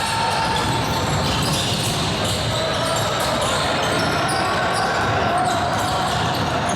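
Basketball game in a gym: a ball bouncing on the court, with many short knocks throughout and voices in the background.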